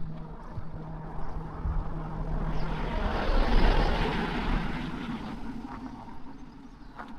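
A motor vehicle passing by, its noise swelling to its loudest about halfway through and then fading away.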